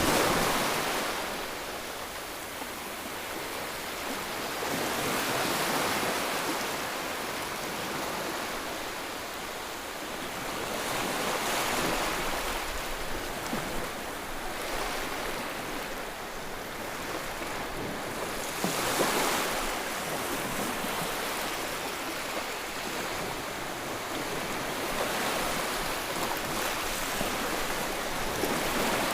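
White noise for soothing a baby, in the form of ocean surf: a steady hiss that swells and ebbs slowly, about every six seconds.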